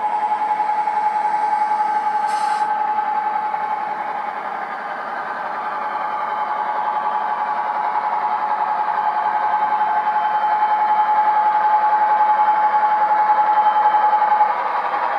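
Hornby Class 08 model shunter's TTS sound decoder playing a diesel engine sound through its small speaker: a steady hum with one held tone. It eases off about four seconds in, then builds up slowly, and the held tone stops near the end.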